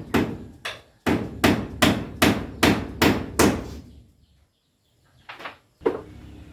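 A run of sharp, evenly spaced knocks or blows, about two and a half a second, lasting about three and a half seconds. After a short pause, two more knocks come near the end.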